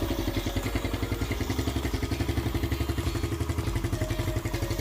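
Suzuki Raider 150's single-cylinder four-stroke engine idling steadily with an even, rapid putter, just after being kick-started to warm up and dry the freshly washed engine.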